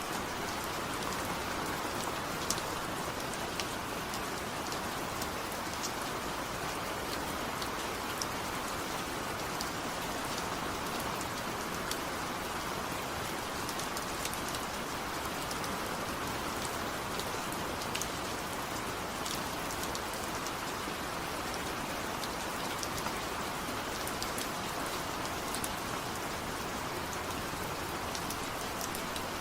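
Steady rain, with scattered sharp drip ticks from drops striking a surface.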